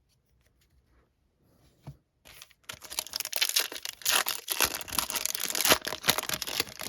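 Foil trading-card pack wrapper being torn open and crinkled. A dense crackling rustle starts about two seconds in, after a near-silent start.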